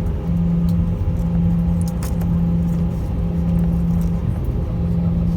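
Jet airliner engine and cabin noise heard from inside the passenger cabin: a steady low hum over a rumble, broken briefly every second or so.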